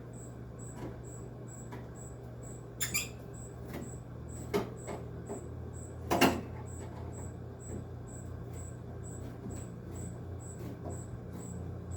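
Screwdriver working rusty slotted screws out of a window air conditioner's metal cabinet by hand: scattered metal clicks and scrapes, the loudest about six seconds in, over a steady low hum.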